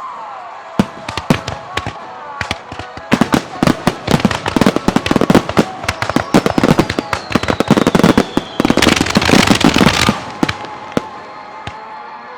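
Fireworks display: aerial shells bursting in a rapid-fire barrage, a few bangs at first, then a dense run of overlapping bangs from about three seconds in until about ten seconds, thinning out near the end. A whistle glides down in the middle of the barrage, and a dense high hiss follows for about a second near the end of the dense run.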